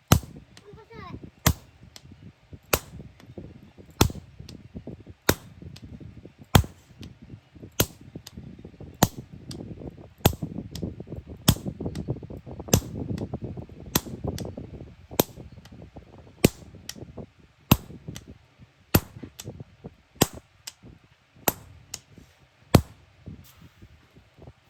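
Hammer striking hot iron on an anvil in a steady forging rhythm, one hard blow about every second and a quarter, with lighter taps in between.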